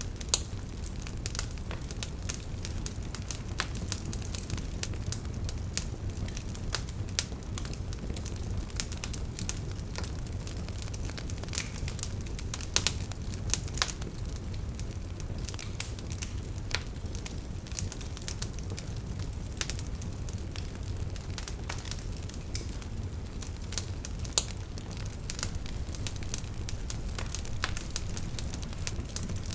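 Wood campfire burning, with frequent irregular sharp pops and crackles over a steady low rumble of the flames.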